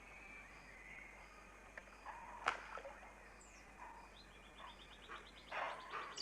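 Faint tropical forest ambience with scattered bird calls: a sharp call about two and a half seconds in, a rapid run of short ticking notes about four seconds in, and louder harsh, noisy calls near the end.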